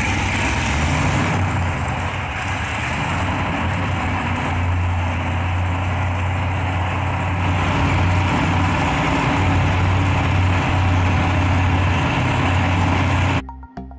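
Supercharged 327 small-block V8 of a 1962 Chevrolet Corvette gasser running at low speed as the car is driven slowly, a steady, loud, low rumble that swells a little at times. It cuts off abruptly near the end, where music begins.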